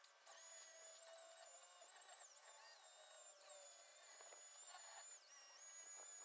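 Faint whine of a corded variable-speed drill spinning a sanding pad against a stainless steel exhaust pipe, its pitch dipping and recovering several times as the speed changes.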